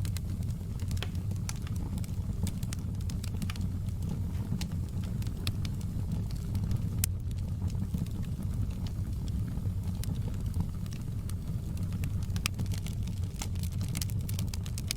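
Wood fire crackling in a fireplace: a steady low rumble of flames with frequent, irregular sharp crackles and pops, one louder pop about seven seconds in.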